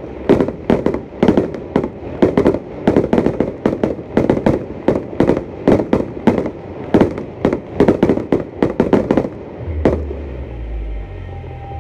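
Fireworks display: aerial shells bursting in a rapid volley, about three bangs a second. The volley stops with a last bang about ten seconds in, leaving a low rumble.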